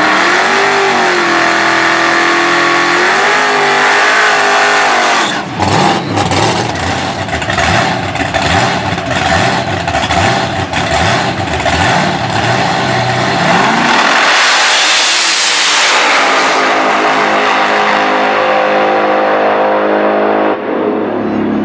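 Supercharged Hemi V8 of a Plymouth drag car: held at steady high revs, then running choppy with sharp cracks and pops for several seconds, then a loud full-throttle surge about two-thirds of the way in, after which its note fades as the car pulls away.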